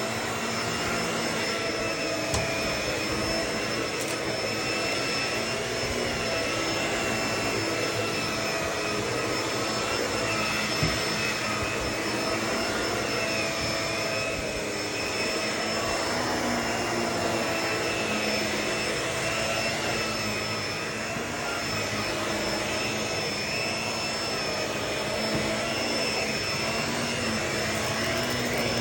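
Vacuum cleaner running steadily, its motor whine wavering slightly in pitch, with a few sharp clicks, such as bits of debris being sucked up.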